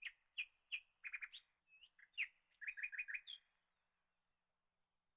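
A bird chirping: a run of short, high chirps, some in quick clusters of three or four, stopping about three and a half seconds in.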